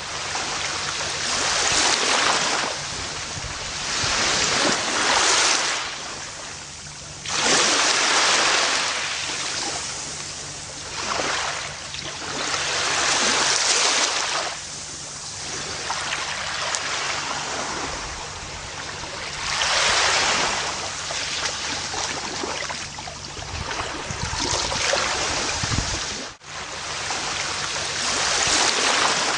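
Gentle ocean waves washing onto a beach, each surge of surf swelling and then receding every few seconds, with a momentary drop in sound at about 26 s.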